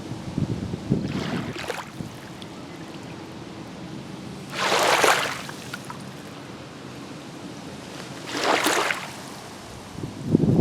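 Small waves on Green Bay washing and splashing against the shore, one every few seconds, the loudest about halfway through. A faint steady low hum runs underneath.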